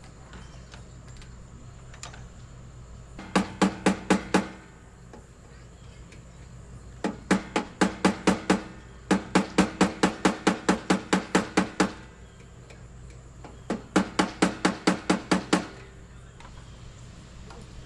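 Four quick runs of ringing metallic knocks, about six a second, each run lasting one to three seconds, from a tool rapidly striking metal conduit hardware.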